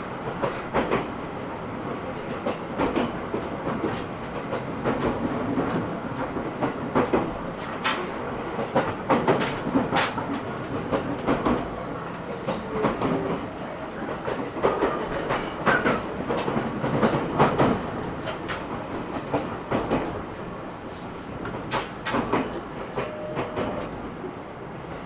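Cabin running sound of an E127 series 0 electric multiple unit under way: a steady rumble of wheels on rail, with frequent sharp clicks from the wheels passing over rail joints.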